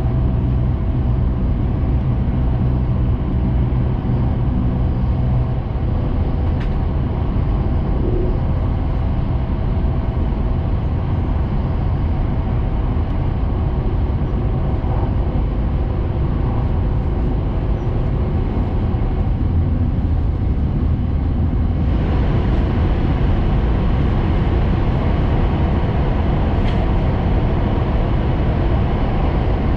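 Running noise of a Hayabusa Shinkansen train at speed, heard inside the passenger cabin: a steady low rumble with rushing noise. About two-thirds of the way through, the sound turns hissier.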